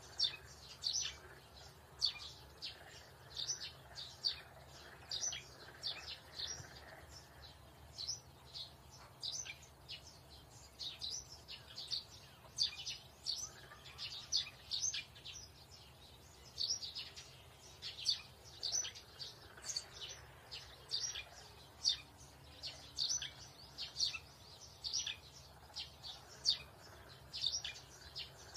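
Small birds chirping steadily, a continuous run of short, high chirps, several a second.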